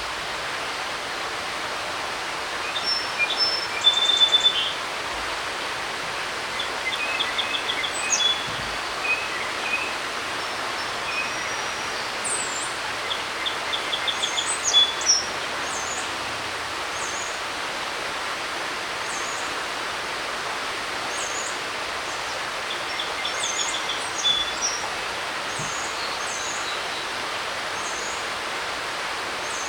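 Creek running with a steady rushing hiss, with songbirds singing over it. Several short rapid trilled songs come in the first half, then a high chirp repeats about every second and a half.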